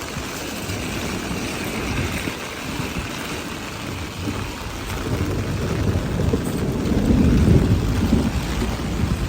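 Steady rain hiss with a low rumble underneath that swells from about halfway through and is loudest near the end.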